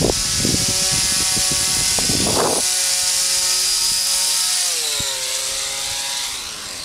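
Small electric motor and propeller of a Gold Rosita RC motor paraglider in flight, a steady whine with a buzzy hiss. Its pitch slides down a little about halfway through. Wind buffets the microphone in the first couple of seconds.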